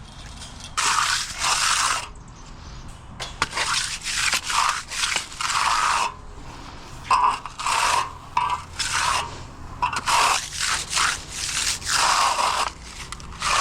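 A hand finishing tool scraping over fresh concrete in about a dozen separate strokes, each lasting half a second to a second.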